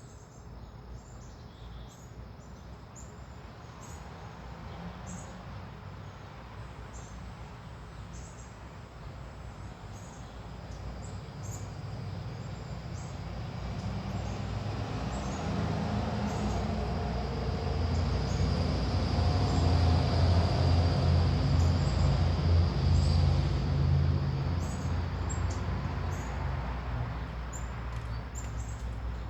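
Small birds chirping in short, repeated calls, while the rumble of a passing engine slowly swells to the loudest sound about two-thirds of the way through, then fades.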